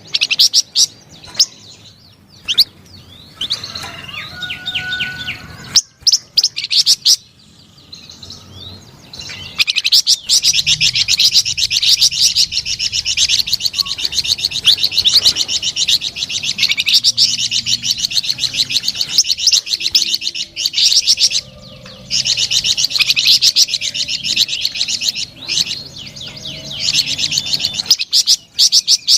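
Songbird known to Indonesian bird-keepers as a flamboyan singing: a few short phrases at first, then from about ten seconds in long, fast trills of rapidly repeated high notes, broken by short pauses twice near the end.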